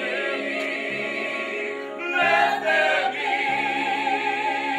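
Choir singing held chords with vibrato. About two seconds in, a louder, higher vocal line swells over the chorus.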